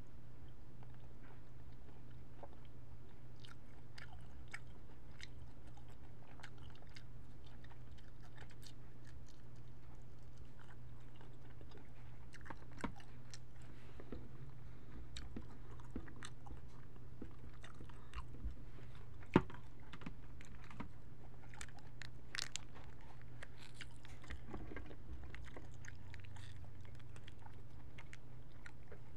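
Close-miked chewing of cooked jumbo shrimp, with scattered small wet clicks and one sharp click about two-thirds of the way through, over a steady low hum.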